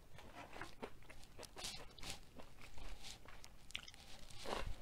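Close-miked chewing and crunching mouth sounds: a scatter of short wet crackles and clicks, with a firmer bite near the end.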